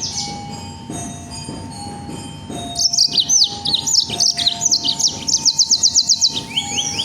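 Songbird singing: about three seconds in it breaks into a loud burst of high, rapid-fire sweeping notes, the dense 'shooting' song that bird keepers call tembakan. The burst ends in a fast, even trill of about ten notes a second.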